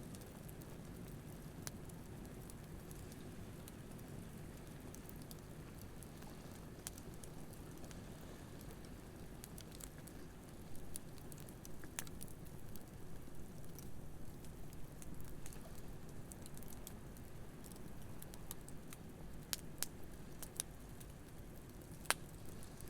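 Wood campfire crackling with scattered sharp pops that come more often in the second half, over a steady low wash of ocean waves.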